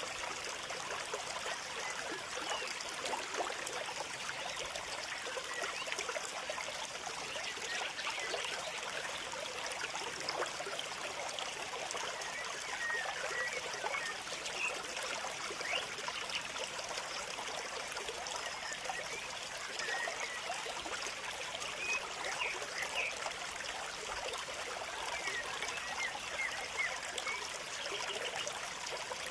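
Dense, continuous chatter of many small birds, with short chirps running together into a steady trickling texture.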